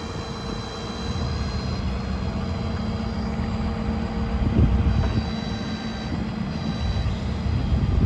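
Bucket truck running with a steady engine drone, and a thin high whine above it that comes and goes.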